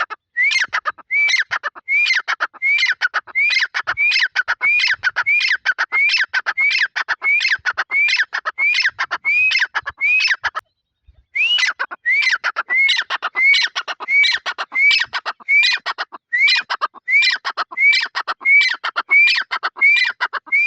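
A partridge (teetar) calling over and over, loud, at nearly two calls a second. It breaks off for under a second about halfway through, then carries on at the same pace.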